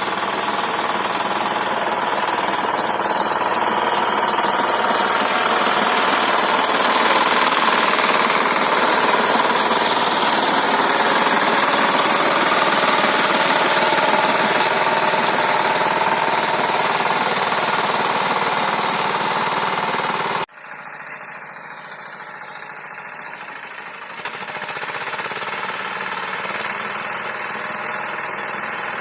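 Walk-behind tractor's engine running steadily under load as its rotary tiller works the garden soil. About two-thirds of the way through the sound drops suddenly to a quieter level, then rises again a few seconds later.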